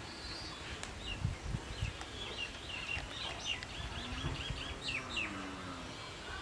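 Bird chirping: a quick run of short, high notes, about four or five a second, through the middle, with a few low thumps about a second in.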